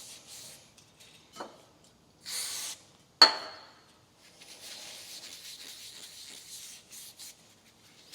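A brass carburetor float bowl being scrubbed by hand with a Scotch-Brite scouring pad during cleaning, in a run of rubbing strokes. There is a short hiss of carb-cleaner spray, then a single sharp metallic clank with a brief ring about three seconds in, and after it the scrubbing carries on.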